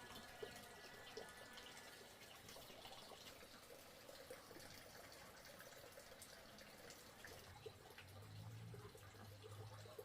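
Faint trickling and dripping water, with scattered small ticks.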